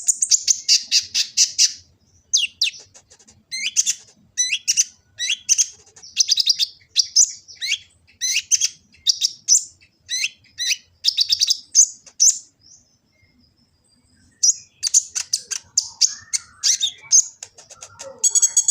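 Kolibri ninja (Van Hasselt's sunbird) singing its full song: rapid, high-pitched twittering phrases about once a second. The song breaks off for about two seconds a little past the middle, then resumes.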